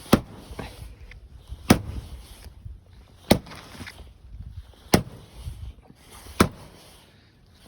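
A 10-pound sledgehammer striking an ice-filled backyard rink wall: five sharp blows, evenly spaced about a second and a half apart.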